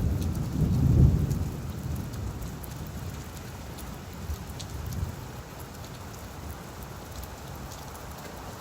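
Steady rain falling on leaves, with scattered single drops audible. A low rumble of thunder swells at the start, peaks about a second in and fades over the next couple of seconds.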